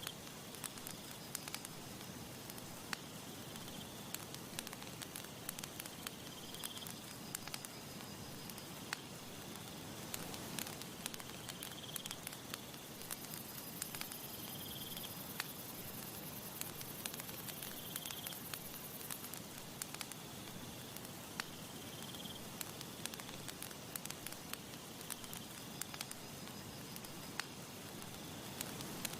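Wood campfire crackling, with frequent sharp pops and snaps over a steady soft hiss. Faint short high chirps recur every few seconds in the background.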